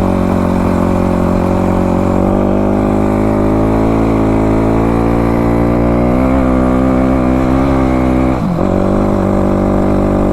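Dirt bike engine running steadily under way on sand, its pitch rising slowly in the middle, with a brief drop about eight and a half seconds in, as on a throttle change or gear shift.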